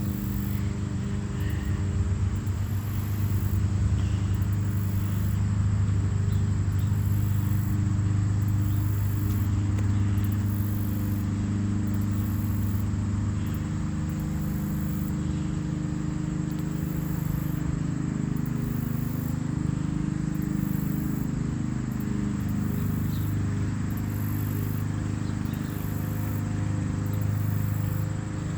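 A motor running steadily, its pitch shifting a few times, with insects trilling high above it in regular pulses about once a second.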